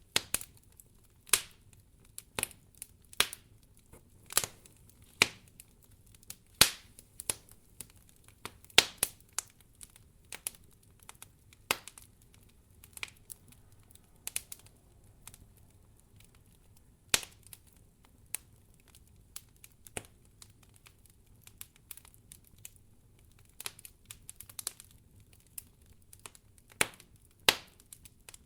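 Wood fire crackling in a fireplace: irregular sharp pops and snaps, one or two a second, some much louder than others, over a faint low rumble of the flames.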